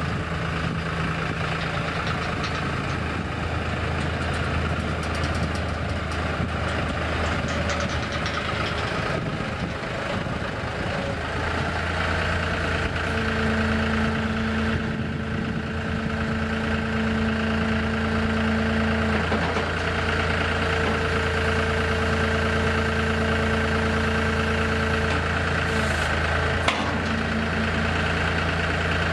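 John Deere 5103 tractor's diesel engine running steadily at idle, with a faint knock in the engine note.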